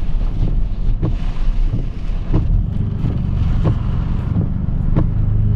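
Vehicle cab while driving in a storm: low engine and road rumble with wind buffeting the microphone, and sharp irregular taps about every half second.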